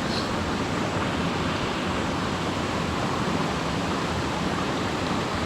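Steady rush of a waterfall: an even wash of falling-water noise with no break.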